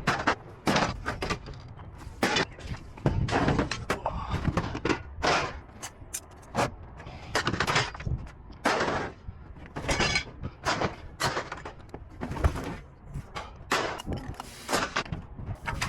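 Scrap metal clanking and banging as pieces are handled and tossed, a long run of irregular sharp knocks, some ringing on briefly.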